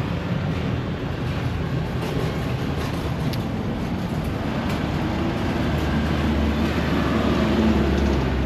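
Steady street traffic noise, with a vehicle's engine rumble growing louder near the end as it passes close.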